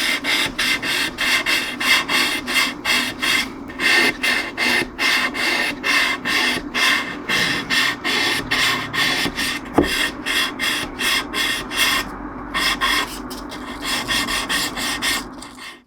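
Quick back-and-forth abrading strokes on the wooden neck of a cello, about three a second, with one short pause late on. A single low knock about ten seconds in. The strokes stop just before the end.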